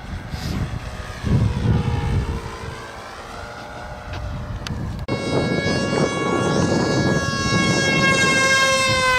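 RC model airplane's motor and propeller whining in flight. The pitch dips and climbs again in the first half as the plane passes, then a louder, steady whine comes in suddenly about five seconds in and eases down in pitch near the end. Low rumbling wind noise on the microphone lies underneath.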